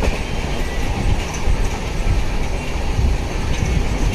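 Express passenger train running at full speed, heard from on board: a steady loud rumble of wheels on rail with irregular low knocks.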